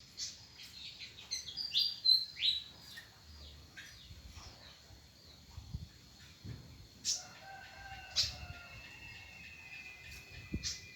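Cucak wilis (leafbird) chirping: a quick run of sharp, falling chirps in the first three seconds, then scattered calls, with a few sharp clicks and a faint held tone in the second half.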